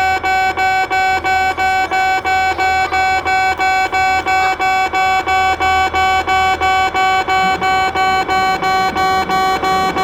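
Japanese railway level-crossing warning bell ringing: a loud electronic ding repeated steadily at about four strokes a second. A low rumble joins in near the end.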